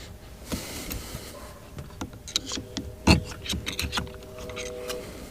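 Clicks and knocks of hands and tools working at a stubborn part of a boat's remote-control handle, with one louder knock about three seconds in. A faint steady hum runs under it for the second half.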